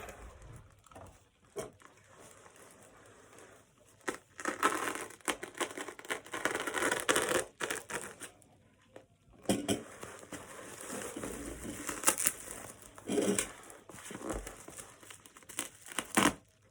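Parcel packaging crinkling and tearing as it is handled and opened by hand, in irregular bursts that start about four seconds in, pause briefly, then go on.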